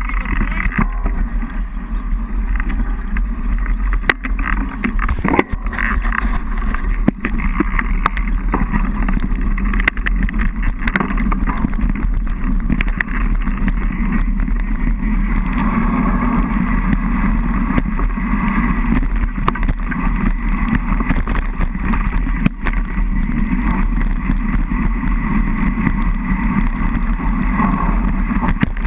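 Dirt bike engine running steadily as the bike rides along a rough dirt trail.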